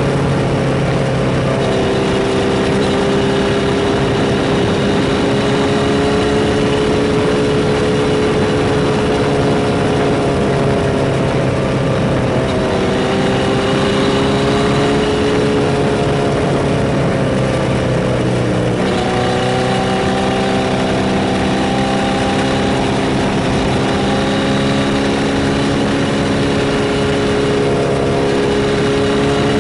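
Kawasaki Z1000Mk2's air-cooled inline-four engine running at a steady cruising pace while riding, with a few small changes in pitch as the speed shifts. Wind and road noise throughout.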